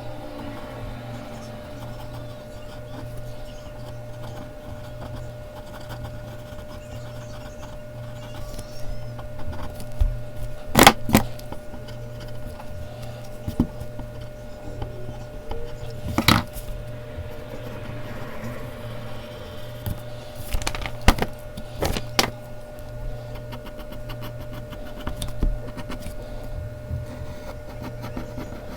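Mechanical pencil scratching over Bristol paper while drawing, over a steady low hum, broken by a few sharp clicks or taps, the loudest pair about eleven seconds in.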